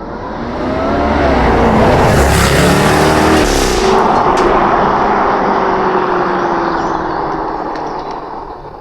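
Jaguar F-Type's 5.0-litre supercharged V8 accelerating hard, its engine note climbing in several rises. It then settles into one long falling tone as the sound fades toward the end.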